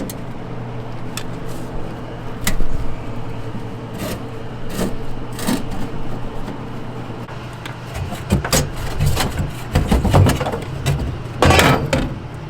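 Scattered clicks, knocks and scrapes of metal parts being unfastened and taken off a Lennox furnace's inducer assembly, busier in the last few seconds, over a steady low hum.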